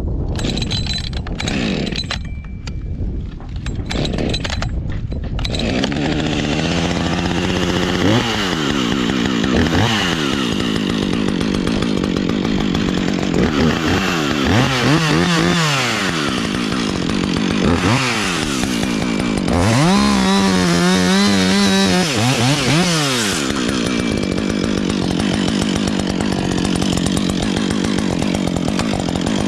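Chainsaw cutting oak: the engine revs up and drops back again and again, its pitch rising and falling several times, then runs steadily at speed near the end. The first few seconds are scrappier and broken before the saw settles into the cut.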